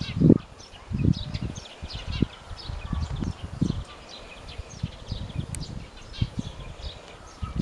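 Birds chirping in many short, high notes, over irregular low thuds that are loudest near the start and about a second in.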